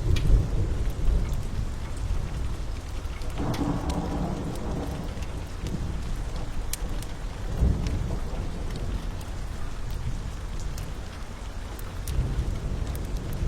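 A long roll of thunder rumbling over steady rain, loud from the start and swelling again a few seconds in and near the end. Sharp crackles are scattered throughout.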